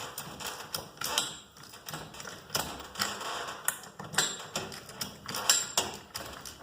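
Irregular metallic clicks and knocks from a garage door's torsion tube and cable drum being turned and handled by hand, with a couple of brief metallic rings.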